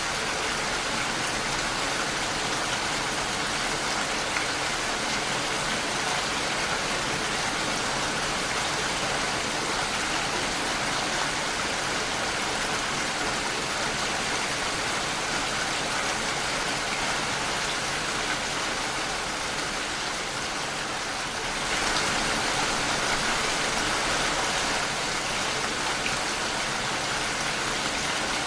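Steady rain pattering against a window pane, a dense even hiss of drops, which eases slightly and then grows a little heavier about three-quarters of the way through.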